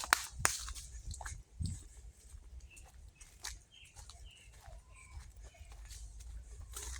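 Birds calling with short, scattered chirps over a low steady rumble, with a few sharp clicks, the loudest in the first half second.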